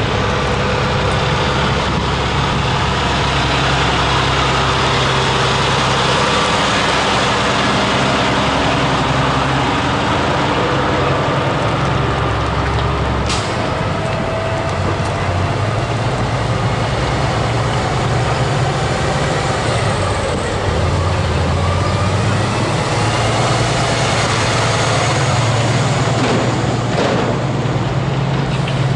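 Heavy trucks' diesel engines idling and moving off: a low, steady rumble whose pitch shifts every few seconds as trucks pull away and pass. A brief sharp sound comes about halfway through.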